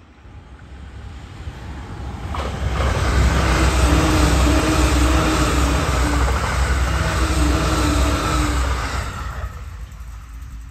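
An E657 series electric limited-express train passing at speed: wheel-on-rail noise swells as it approaches, stays loud with a steady hum under it while the cars go by, then fades after the last car passes near the end.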